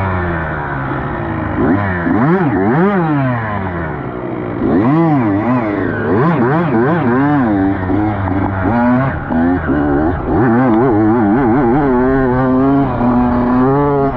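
Dirt bike engines revving up and down repeatedly, rising and falling in pitch about once a second as the bikes are ridden hard, with more than one engine heard at once.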